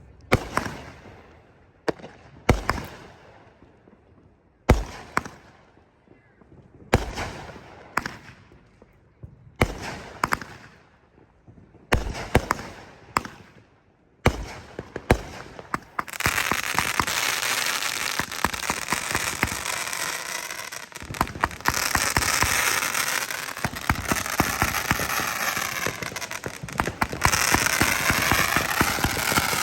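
Aerial fireworks bursting: sharp booms every second or two, each fading out, then from about halfway through a dense, continuous barrage of crackling bursts, as in a finale.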